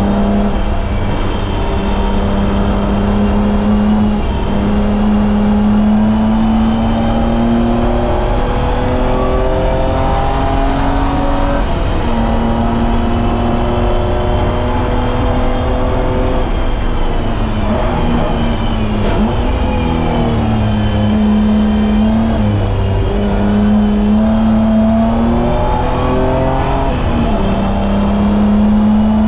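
BMW E30's M20B25 inline-six under hard load on track, its pitch climbing through each gear and dropping at several gearchanges. Around the middle the revs fall away and come back up, as when braking and downshifting for a corner.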